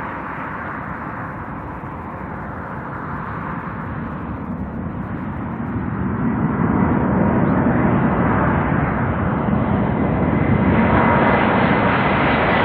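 Boeing 747-400 freighter's four jet engines on landing approach: a rushing engine noise that grows louder about halfway through as the plane draws near, with a faint steady whine coming in near the end.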